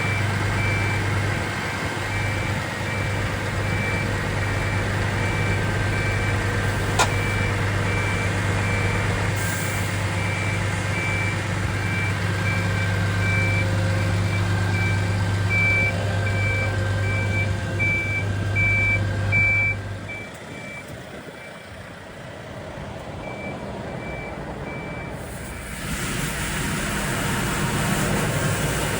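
Scania P410 street-sweeper truck running steadily with a repeated high beeping warning alarm. About two-thirds of the way through the engine sound drops away; the beeping stops soon after, and the engine noise comes back up near the end.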